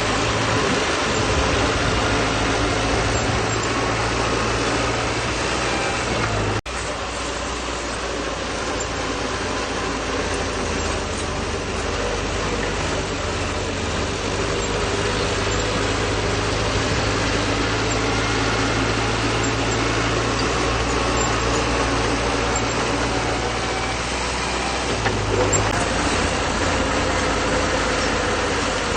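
Bulldozer's diesel engine running steadily under work. The sound breaks off for an instant about six and a half seconds in.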